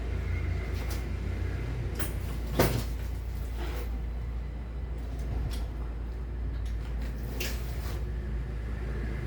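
A few sharp knocks and clatters from handling and working on a small hand cart, the loudest a single knock about two and a half seconds in, over a steady low hum.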